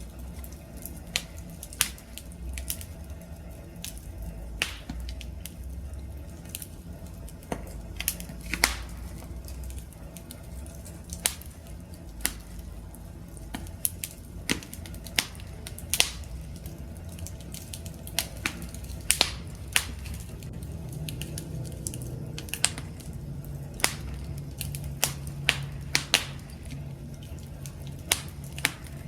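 Wood campfire crackling: sharp, irregular pops and snaps of burning wood over a steady low rumble of the flames.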